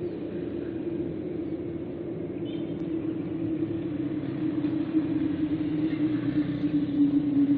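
A vehicle's steady, droning hum over a low rumble, sliding slowly down in pitch and growing louder toward the end.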